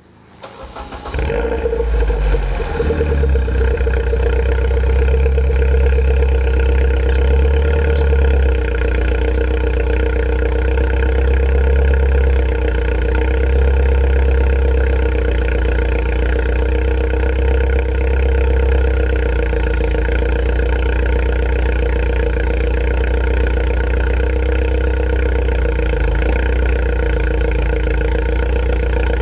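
2007 MINI Cooper S four-cylinder engine starting up and settling into a steady idle through a custom 2.5-inch Flowmaster exhaust, with a deep, even exhaust rumble.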